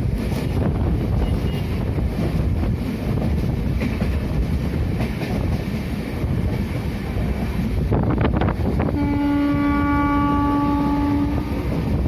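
Passenger train running along the track, with a brief clatter of knocks about eight seconds in, then the locomotive horn sounding one steady blast of about two and a half seconds.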